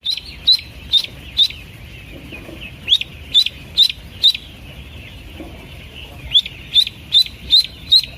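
Pekin duckling peeping: short, high peeps that each rise sharply in pitch, about two a second, in runs of four or five with short pauses between.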